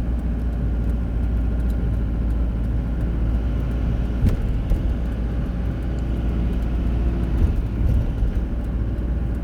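Car running steadily along the road, a continuous low rumble, with a single short click about four seconds in.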